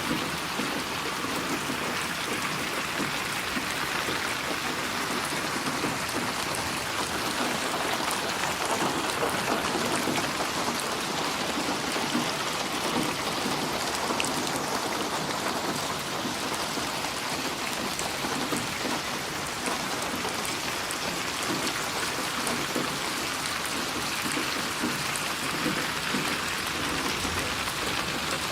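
Steady rain falling, an even, unbroken rush of drops that neither builds nor fades.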